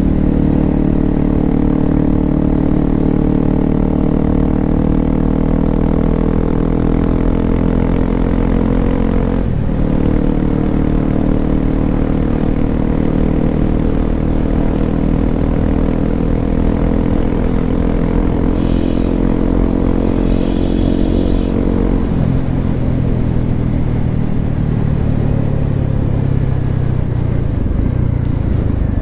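Honda CRF250L's single-cylinder four-stroke 'thumper' engine running steadily under way through an FMF Q4 exhaust. The note dips briefly about a third of the way in and settles lower and slower about three-quarters through. A short high squeal sounds just before that drop.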